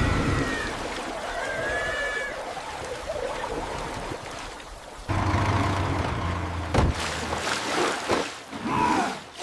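Watery sloshing noise, joined about five seconds in by a low, steady machine hum, with a couple of short knocks near the end.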